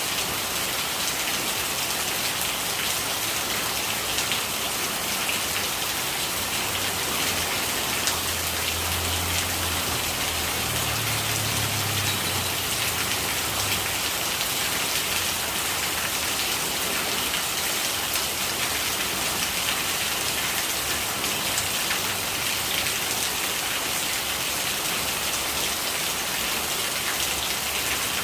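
Steady rain falling and pattering on a surface, a dense even hiss full of small drop ticks, with a faint low rumble for a few seconds in the middle.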